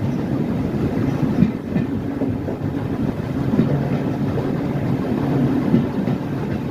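A train running along the line, heard from on board: a steady low rumble with a few faint knocks from the wheels on the track.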